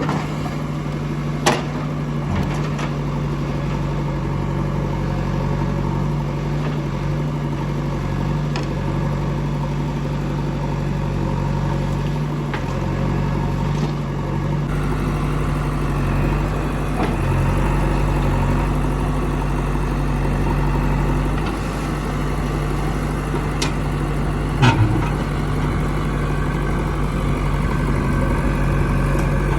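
Diesel engine of the earthmoving machinery running steadily at an even speed, with a sharp knock near the start and a louder clank about three-quarters of the way through.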